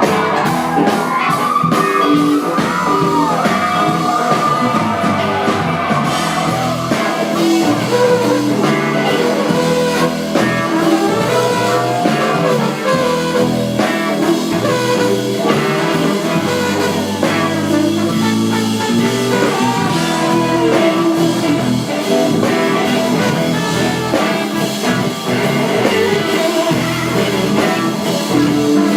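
Live blues-rock band playing with full drums and bass under it. A lead line slides up and down in pitch over the band.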